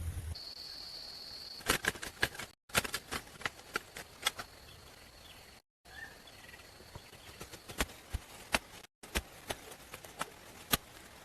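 A series of sharp knocks and taps in short bursts, broken by brief gaps, with a steady high whine in the first seconds.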